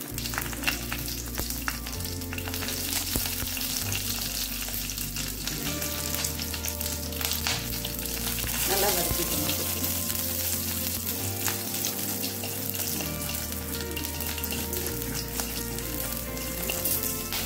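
Green and dry red chillies with mustard seeds frying in hot oil in a metal kadai as a tempering, a steady sizzle with scattered small pops and crackles, stirred with a wooden spatula.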